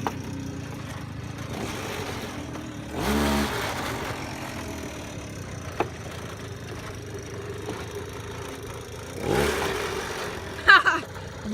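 Small 50cc mini bike engine running with two rising revs, one about three seconds in and one near the end, with rattling and a sharp click between them. A shout comes in near the end.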